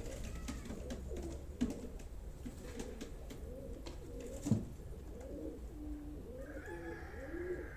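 Several domestic pigeons cooing, their calls overlapping, with a single sharp knock about four and a half seconds in.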